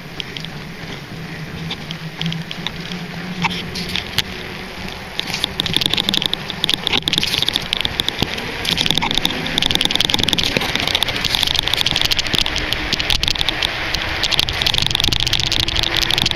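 Schwinn bicycle ridden over a dirt trail: a dense rattling and clicking of the frame and the handlebar-mounted camera jolting over rough ground. It grows louder and busier about five seconds in.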